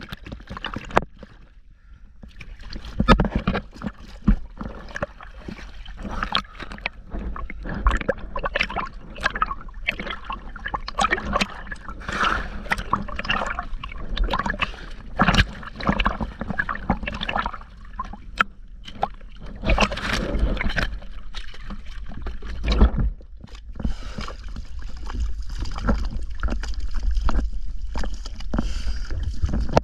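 Diver's breathing regulator heard underwater: exhaled bubbles crackle and gurgle in irregular bursts with short lulls between breaths.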